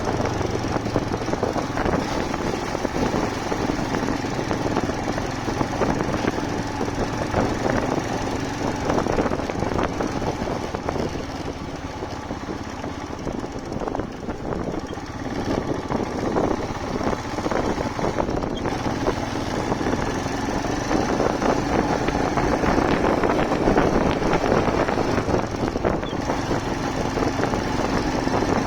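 Motorcycle engine running steadily under way, its note wavering with the throttle and easing off for a few seconds around the middle before picking up again.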